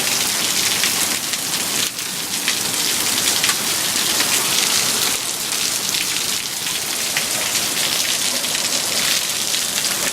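Hail and heavy rain pelting down, a loud, steady, dense hiss of countless small hits.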